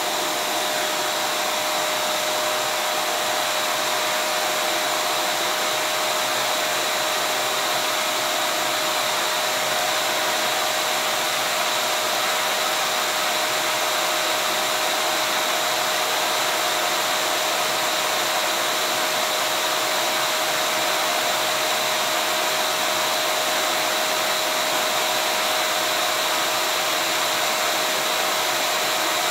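Vacuum cleaner running steadily: an unbroken rushing hiss with a constant whine held on one pitch.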